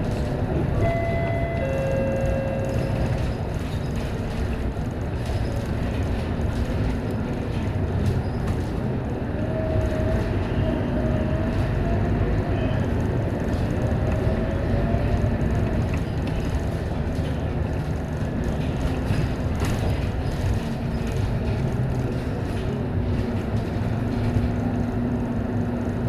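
Scania K230UB single-deck city bus under way: a steady engine and road rumble, with a whine that rises and falls for several seconds from about ten seconds in. A few short steady tones sound near the start.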